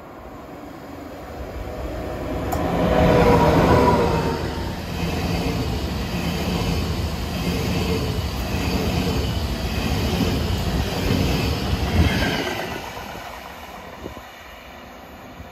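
ICE high-speed electric train passing close by. It builds to its loudest about three to four seconds in as the front goes past, then holds a steady rumble of wheels on rails as the coaches run by. A sharp clack comes near the end, then the sound fades away.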